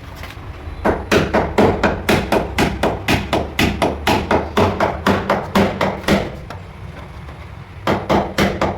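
A hammer driving nails into plywood with a fast, even run of blows, about five a second, for several seconds. After a pause there is a short second burst of strikes near the end.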